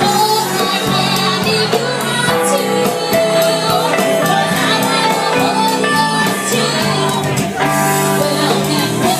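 Live rock band playing a song, with voices singing.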